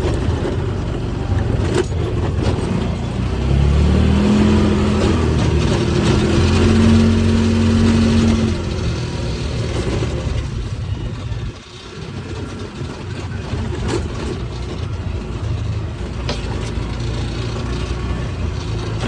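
A motor vehicle's engine running, its pitch rising about four seconds in and holding before dropping back at about eight and a half seconds.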